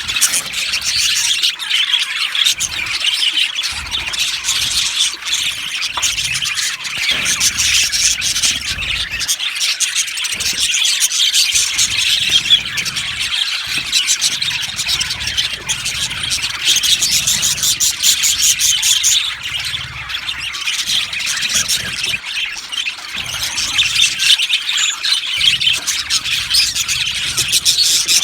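A flock of budgerigars chattering, chirping and squawking all at once in a continuous, dense din.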